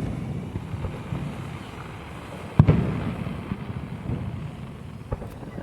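Aerial firework shells bursting: one loud boom about two and a half seconds in with a rolling, rumbling tail, a smaller crack near the end, and a low rumble of more distant bursts throughout.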